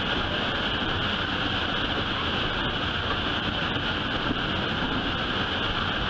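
Steady rumble and rushing noise of a train in motion, heard from aboard a passenger car.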